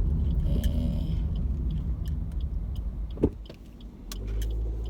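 Car cabin noise while driving: a steady low road and engine rumble, with one short sharp knock about three seconds in, after which the rumble drops briefly and settles into a steadier low hum.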